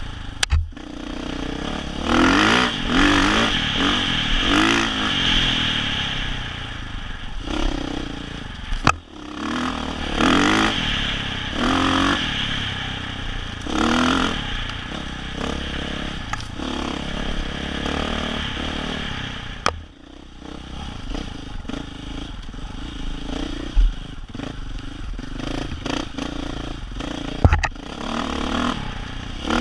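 Dirt bike engine revving up and down in repeated throttle surges, with clatter and a few sharp knocks.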